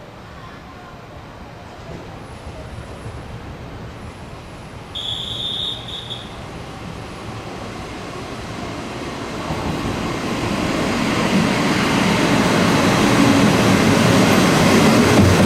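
A train approaching along the track, its rumble growing steadily louder, with a short high-pitched tone about five seconds in.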